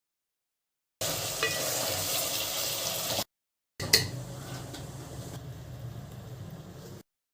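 Food frying and sizzling in a pan, heard in two short stretches with a cut to silence between them; a sharp clink of a utensil opens the second stretch, which is quieter and fades.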